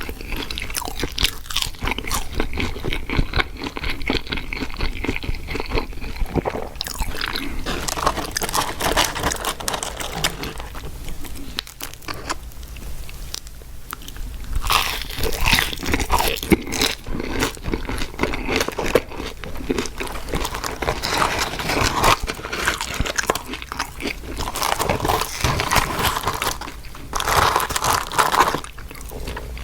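Close-miked biting, crunching and wet chewing of crispy fast food, in dense irregular crackles with a short quieter lull about twelve seconds in.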